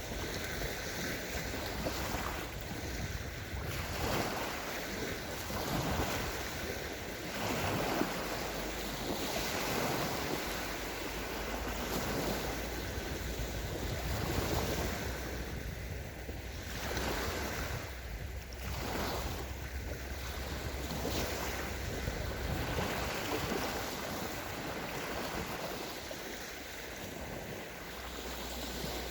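Small sea waves breaking and washing up a sandy shore, surging every couple of seconds, with wind rumbling on the microphone.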